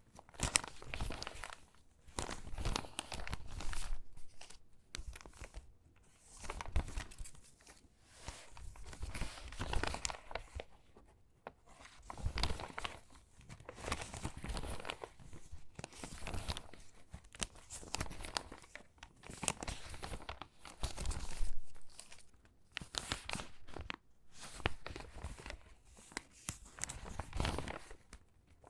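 Stiff, crinkly water-damaged magazine pages being handled and sorted by hand, in irregular bursts of crinkling and rustling with brief pauses between.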